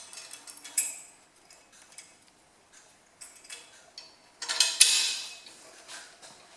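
Light metallic clicks and clinks of a steel hitch clip being fitted onto a three-point hitch pin, with a sharp click about a second in and a louder ringing clatter of metal on metal near five seconds.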